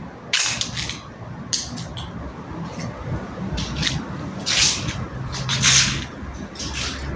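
Outdoor water ambience: short hissing splashes at irregular intervals, about one a second, over a low steady rumble.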